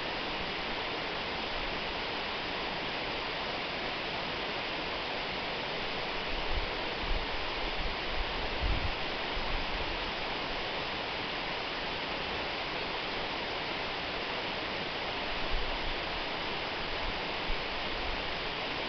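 Waterfall: a steady rush of falling water with a hissy, bright tone, broken by a few brief low bumps about a third of the way in and again near the end.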